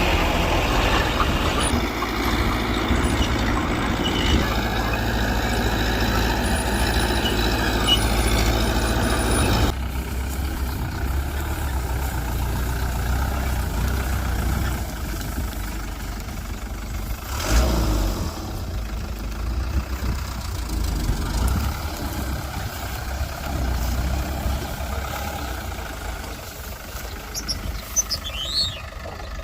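Mitsubishi BD2G crawler bulldozer's diesel engine running steadily, louder for the first ten seconds and then dropping to a lower level. One loud thud comes a little past halfway.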